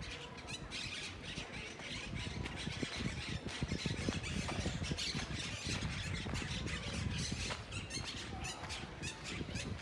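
Birds squawking in quick, repeated harsh calls over a low rumble.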